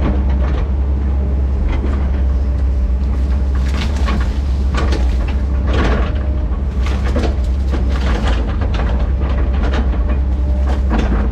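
Diesel engine of a tracked earthmoving machine running steadily under load, with irregular clanking and rattling from its steel tracks and working gear.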